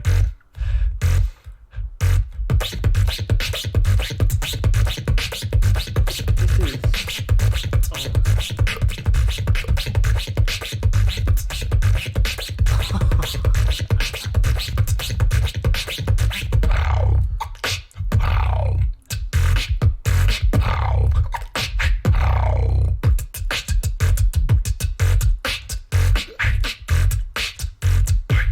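Human beatboxing: a fast, dense beat of bass kicks and sharp snare and click sounds layered on top of one another, with a short break about a second in and a run of falling pitch sweeps past the middle.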